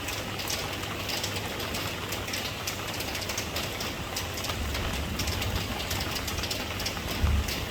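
Steady rain falling, a constant hiss with many small drops pattering. A low rumble comes in about halfway and swells briefly near the end.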